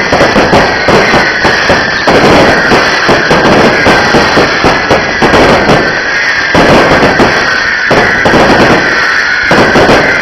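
Fireworks going off in rapid succession, a dense run of bangs and crackling, mixed with music. A high tone slowly falls in pitch several times over them.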